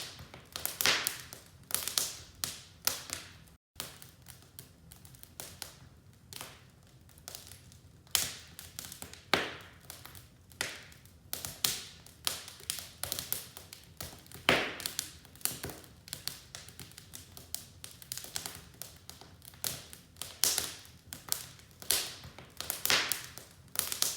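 Wood fire crackling in a fireplace, with irregular sharp pops and snaps, some louder than others. The sound cuts out for a split second about four seconds in.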